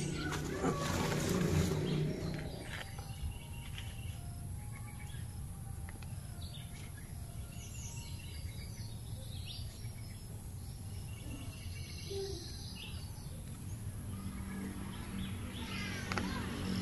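Outdoor ambience with scattered short, high bird chirps. Rustling and knocks in the first couple of seconds, and a low hum comes in near the end.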